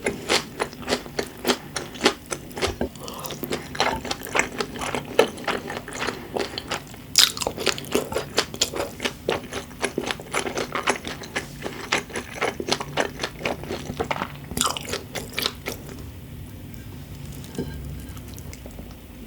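Close-miked chewing of crisp, popping food, with many quick sharp clicks and crunches. About three-quarters of the way through, the chewing turns softer and sparser.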